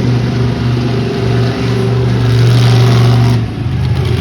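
Monster truck engine running loud in an arena, revving up about halfway through and easing off near the end.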